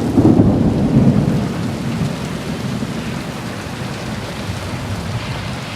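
Thunder rumbling over heavy rain; the rumble is loudest in the first second or two and slowly dies away while the rain goes on steadily.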